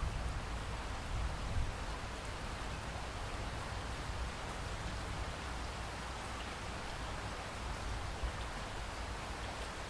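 Steady heavy rain, an even hiss of falling drops over a continuous low rumble.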